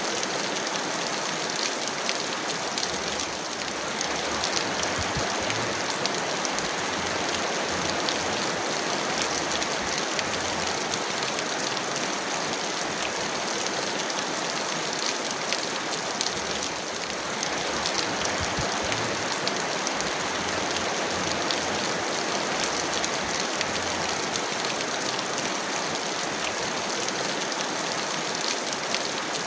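Heavy rain falling steadily: a dense, even hiss with many small drop taps.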